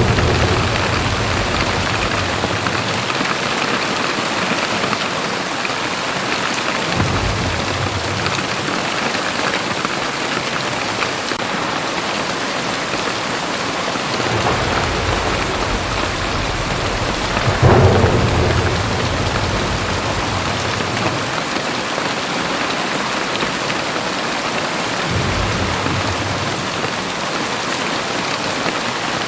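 Very heavy rain pouring steadily, with deep rumbles swelling now and then. The strongest rumble comes about 18 seconds in.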